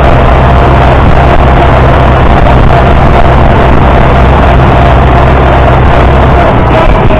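International Harvester 560 tractor engine running steadily as the tractor is driven, very loud and close, with a steady higher whine over the low engine note.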